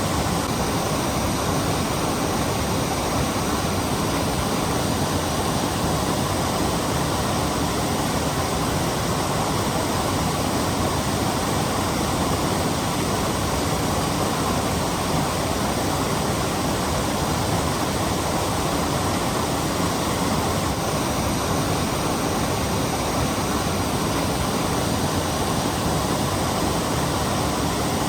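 Steady, loud rush of falling water from a waterfall, even and unbroken throughout.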